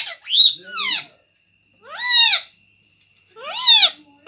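Pet parrot calling: a quick run of short squawks, then two longer calls that rise and fall in pitch.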